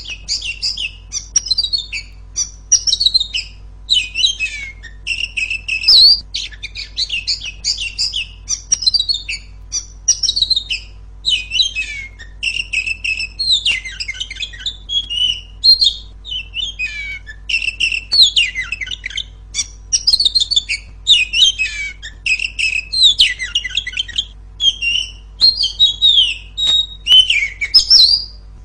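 Female oriental magpie-robin singing: a continuous, loud run of varied clear whistles, slurred notes and quick chattering trills, phrase after phrase with only brief pauses.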